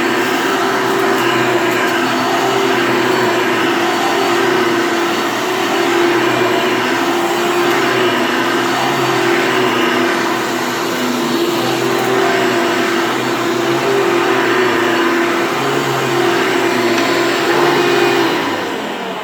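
Hoover Elite upright vacuum cleaner running steadily with a strong motor hum, then switched off about 18 seconds in and winding down.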